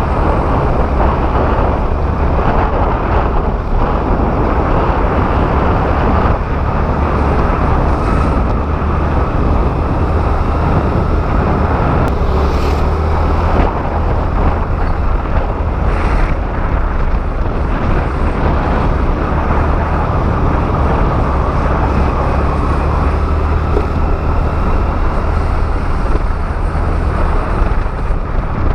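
Steady wind rush over the microphone with road noise from a Honda Activa scooter being ridden.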